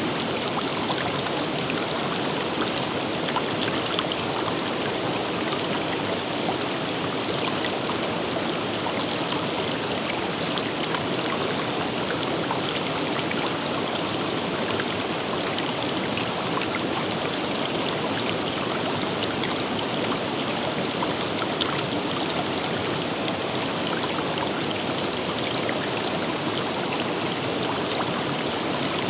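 River water flowing in a steady, even rush. A thin, high steady tone sits above it and stops about halfway through.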